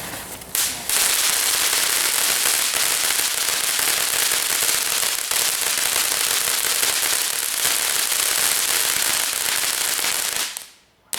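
A consumer firework going off on the ground with a loud, continuous hissing crackle for about ten seconds, which stops abruptly near the end.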